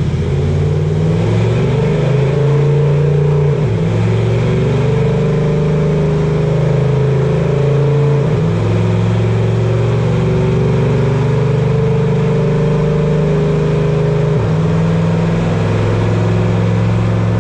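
Supercharged Toyota engine of an off-road race truck at full throttle on a chassis dyno, its pitch climbing steadily. It dips briefly three times, about 4, 8 and 14 seconds in, as it shifts up.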